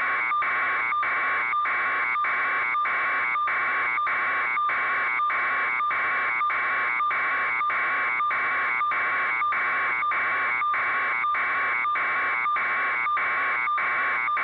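Electronic alarm buzzing in rapid, even pulses, two to three a second, at a steady level throughout.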